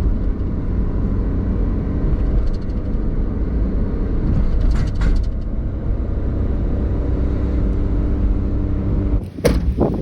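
An engine running steadily with a low rumble. Near the end it drops away and a brief sharp noise follows.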